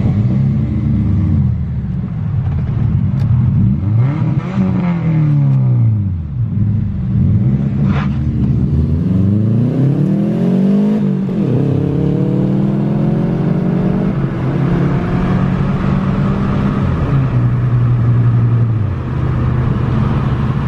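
Muffler-deleted Subaru Impreza 2.5 RS's flat-four engine running loud, its revs rising and falling several times and dropping sharply about eleven seconds in, then holding steadier.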